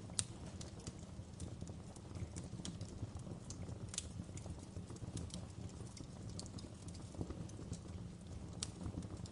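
Wood fire crackling in a fireplace: irregular sharp pops and snaps over a steady low rumble of burning, with the loudest pop about a quarter second in.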